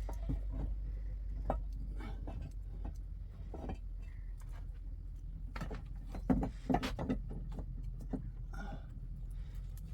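Scattered knocks and clicks over a steady low rumble, with the loudest cluster of knocks a little past halfway.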